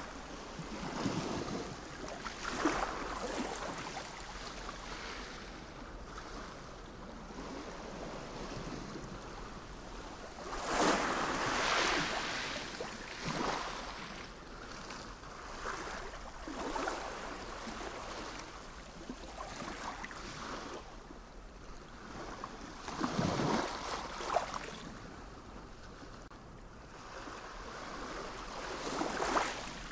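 Sea waves breaking and washing ashore over a steady rush of water, each wave swelling and fading every few seconds, with the loudest about eleven seconds in and again near twenty-three seconds.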